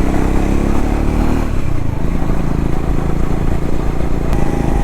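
Triumph Scrambler 400X's single-cylinder engine running steadily under way; the engine note drops about a second and a half in.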